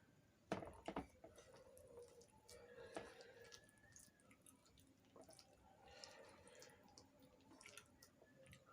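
Faint chewing and wet mouth clicks of someone eating soft puri with potato curry, with a couple of louder clicks about half a second to a second in.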